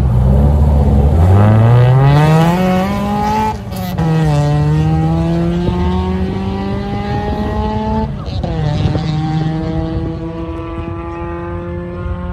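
Honda Civic's four-cylinder engine launching from a standing start and accelerating hard, its pitch rising steadily, with two upshifts about three and a half and eight seconds in. It grows fainter as the car pulls away.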